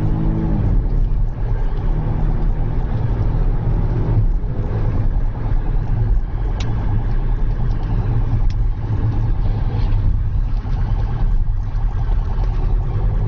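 Car engine and road noise running steadily with a low rumble, the engine note dropping in pitch right at the start. Two brief sharp clicks come around the middle.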